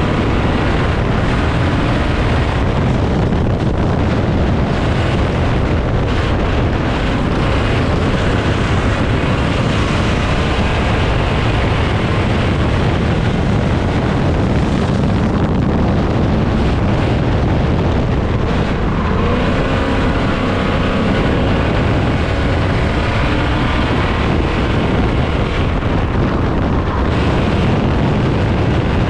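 Dirt-track race car engine running hard at racing speed, loud and steady, with wind buffeting the microphone.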